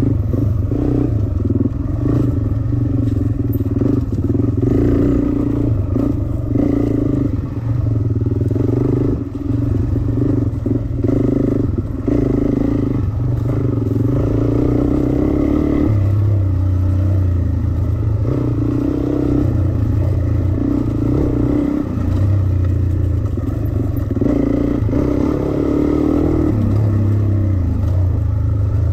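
Dirt bike engine running as the bike is ridden along a trail, its note stepping up and down with the throttle, with some clatter from the bike.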